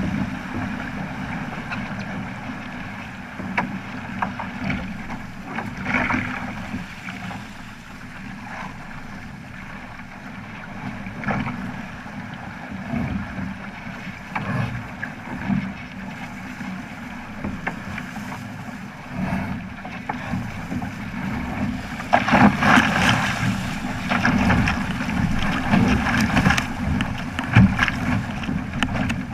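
Water rushing and splashing along the hull of a Flying Fifteen sailing keelboat under way, with wind on the microphone and scattered small knocks. It gets louder from about three-quarters of the way through.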